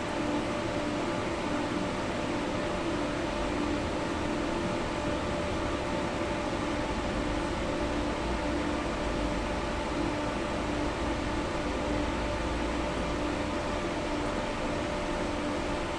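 Tram running between stops, heard from inside the passenger car: a steady rolling rumble with a steady electric hum over it.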